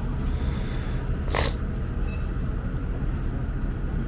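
City buses idling in a steady low rumble, with one short hiss of compressed air about a second and a half in, from a bus's air brakes.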